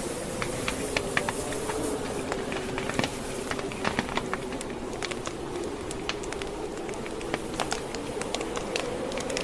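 Wood fire crackling: irregular sharp pops and snaps over a steady rush, with a low wavering hum underneath.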